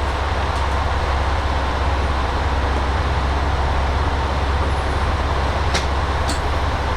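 Diesel railcar's engine idling while the train stands at the platform, a steady deep hum. Two short clicks near the end.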